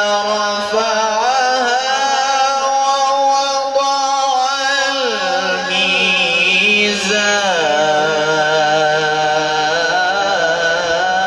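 A male qari reciting the Quran in one long, unbroken melismatic phrase, the voice gliding and ornamenting a held vowel and stepping down in pitch about five seconds in and again near seven seconds.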